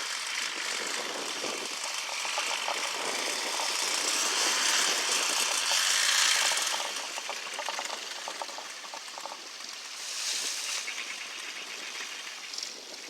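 A small engine running with a fast rattle. It swells to its loudest about five seconds in, then fades and rises briefly again.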